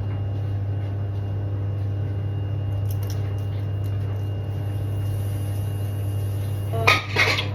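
A steady low hum from a kitchen appliance, with faint small nibbling ticks. A short, loud burst with bending pitch comes near the end.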